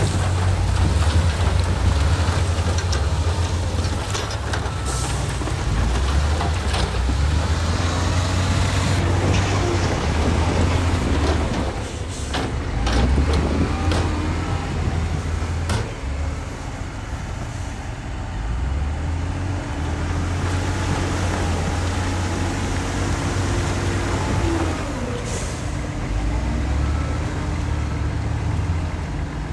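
Heavy diesel engines of earthmoving machinery working: a low engine tone stepping up and down in pitch as it takes load, with a few sharp knocks about ten to thirteen seconds in.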